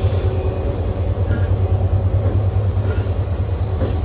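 HGMU-30R diesel-electric locomotive running with a steady low throbbing hum as it draws its train slowly into the platform, with a thin steady high whine alongside and a few faint metallic ticks.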